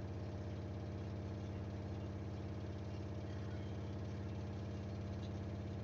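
Samsung washing machine in its final spin with a load of bedding and blankets, the drum spinning at high speed with a steady hum and a fast, even pulsing.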